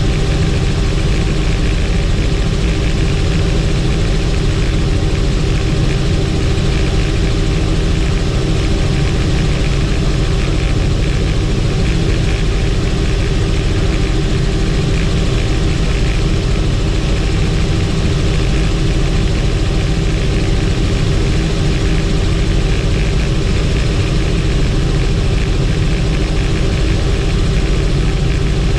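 Helicopter in flight: a steady, loud drone of engine and rotor, unchanging throughout.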